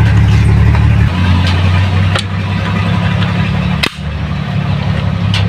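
A vehicle engine running steadily at idle, a low, even drone that eases slightly about a second in. Several sharp clicks come over it, the loudest just before four seconds.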